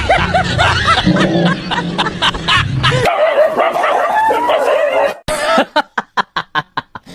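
A dog vocalising, with a wavering drawn-out call in the middle, over a music track. After about five seconds a fast, even plucked beat takes over.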